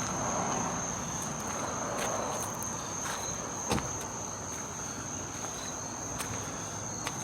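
Insects trilling in one steady high-pitched note, with a few faint clicks and a single sharper knock about halfway through.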